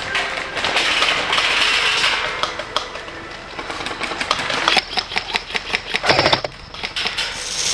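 Airsoft guns firing rapid bursts of sharp clicks in the second half, after a stretch of rustling hiss.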